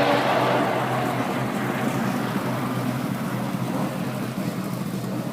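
A car on hot laps going past at speed: its loud, steady engine note breaks off just after the start and the engine sound dies down steadily as the car moves away.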